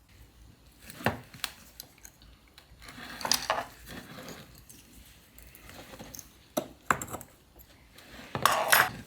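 Scattered small metal clicks and clinks of steel synchromesh parts from a Land Rover Series gearbox being handled as tiny leaf springs are pushed into the synchro hub, with a louder clatter near the end.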